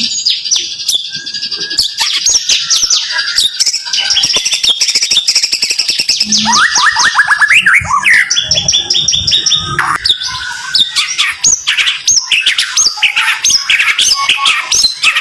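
White-rumped shama (murai batu) singing a fast, dense burst song: rapid runs of short, sharp sweeping whistles and chirps repeated in quick succession, with a run of lower rising notes about halfway through.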